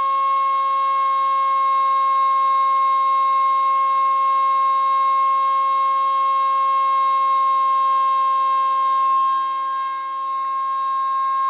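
Homemade Arduino CNC machine running, its motors giving a steady high whine that dips briefly about ten seconds in.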